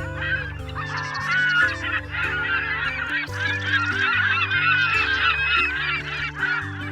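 A flock of geese honking, many overlapping calls at once. Background music with a low, stepping bass line plays underneath.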